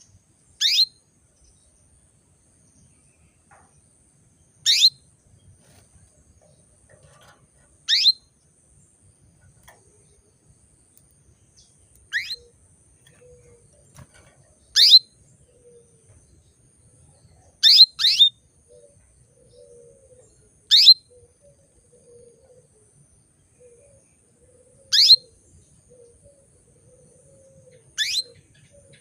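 Female canary giving short, sharp calls, each a quick falling sweep, repeated every three to four seconds, with two in quick succession past the middle. These are the calls of a hen in breeding condition calling to a male.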